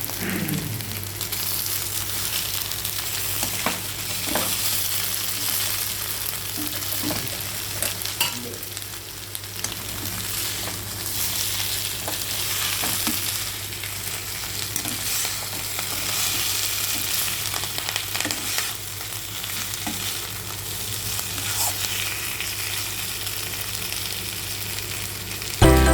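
Mutton mince meatballs sizzling as they fry in a pan, with scattered clicks and scrapes of a utensil stirring them.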